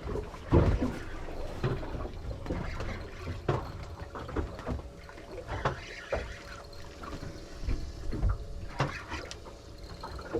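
Water sloshing and lapping against the hull of a small fishing boat, with scattered knocks and splashes and a faint steady hum underneath.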